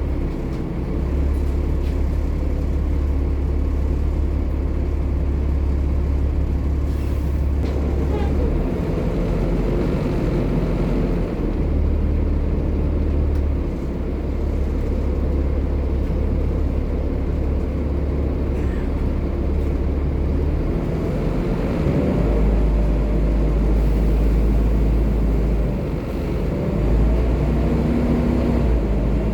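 Volvo B7TL double-decker bus's diesel engine running continuously, its low note shifting in steps several times as the engine speed changes.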